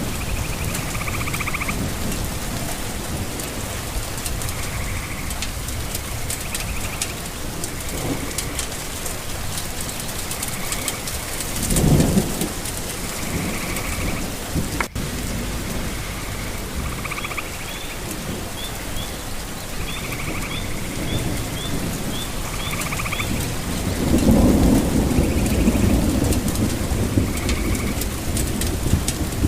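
Steady rain falling, with thunder rumbling about twelve seconds in and again, louder, over the last few seconds. Faint short chirps repeat behind the rain.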